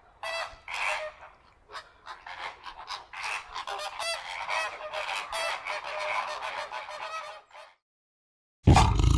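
A flock of geese honking: many short, overlapping calls that stop a little over three-quarters of the way through. After a brief silence, a much louder, deep sound starts abruptly near the end.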